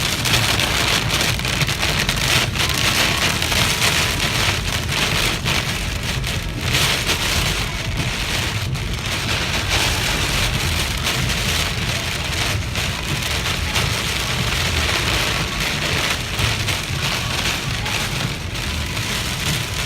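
Heavy rain pouring down steadily in a severe storm, a dense even hiss of water.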